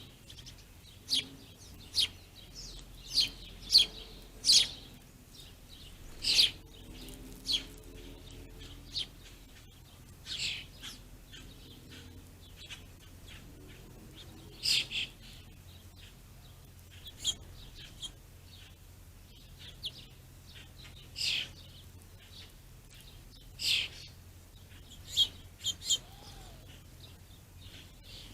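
Small songbirds chirping: short, separate chirps come every second or two, over a faint low hum.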